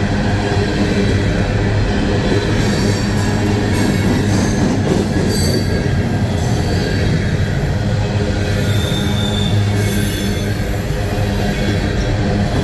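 Empty coal hopper cars of a long freight train rolling past at low speed: a steady, loud rumble of wheels on rail, with high-pitched wheel squeal coming and going as the wheels grind through a curve.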